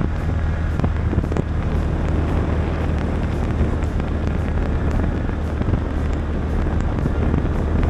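Polaris Ranger 570 side-by-side's single-cylinder engine running steadily while driving, with wind buffeting the microphone.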